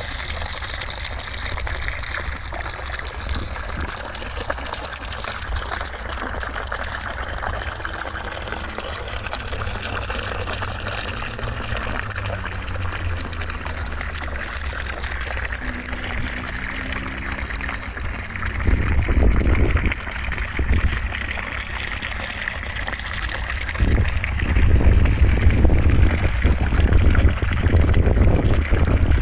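Continuous white noise with a rushing, water-like hiss. About two-thirds in, and again near the end, deeper rumbling swells make it louder.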